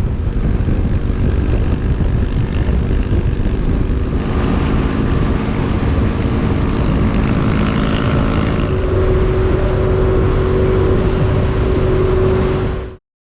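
Motorcycle on the road at speed: steady engine drone mixed with wind rush on the microphone, with a steady hum joining about two-thirds of the way through. It cuts off suddenly near the end.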